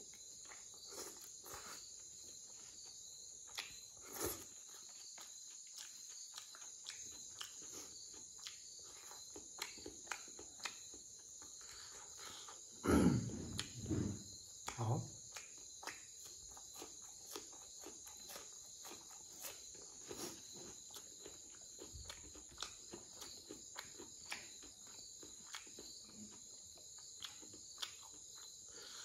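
Close-up eating sounds: chewing and mouth clicks, with a few louder crunching bites about 13 to 15 seconds in as he bites into a raw onion slice. A steady chorus of crickets runs underneath.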